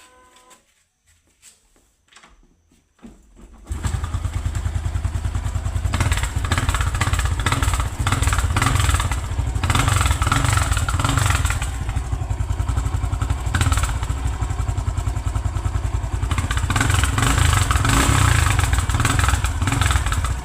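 Honda Pop 110 single-cylinder motorcycle starting about four seconds in and running loudly through an exhaust fitted with a crushed beer can meant to make it crackle. It is revved up several times.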